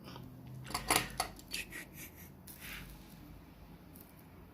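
Close handling noise: a quick cluster of sharp clicks and light clatter about a second in, then a few softer ticks.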